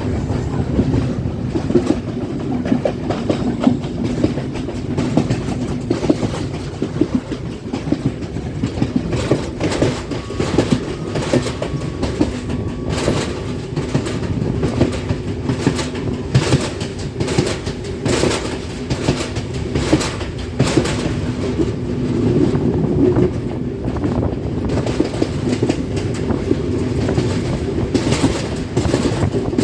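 Passenger train running along the line: a steady rumble of the carriage with frequent clicks and clacks of the wheels over rail joints.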